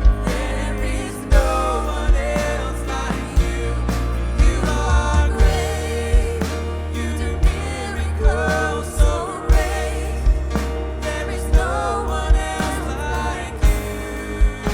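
Live contemporary worship band playing a song, with drums, bass, guitar and piano under sung vocal lines. Regular drum hits and a heavy, steady bass sit under the melody.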